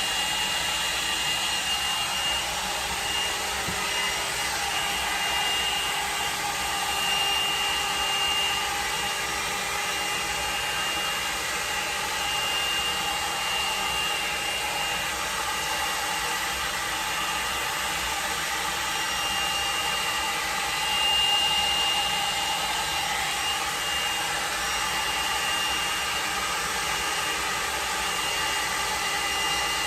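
L'ange blow dryer brush running steadily: a small motor-driven fan blowing air with a steady high whine, growing briefly louder twice, about a quarter of the way in and again about two-thirds in.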